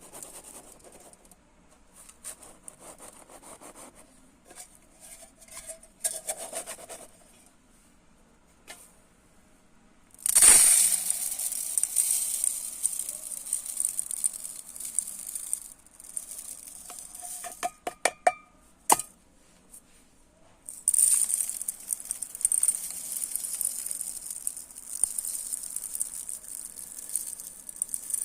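Dry uncooked rice scooped with soft scraping, then poured in two long hissing streams. Between the pours, a few sharp taps ring briefly, as of something knocking against the container.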